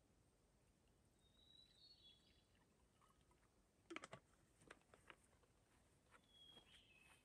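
Near silence, with faint high bird chirps twice and a quick cluster of soft clicks and taps about halfway through.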